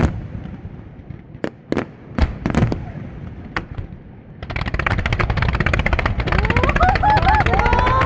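Fireworks: a few separate sharp bangs, then about halfway through a dense, rapid crackling of many small bursts that carries on.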